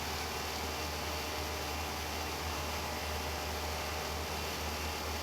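Steady cockpit noise of an Airbus A320 in flight: an even rush of airflow and ventilation with a low hum.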